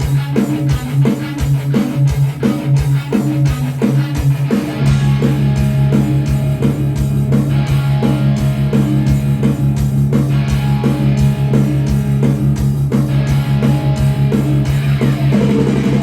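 Instrumental intro of a rock backing track: a repeating guitar riff over regular low thumps, with a sustained bass filling in about four and a half seconds in.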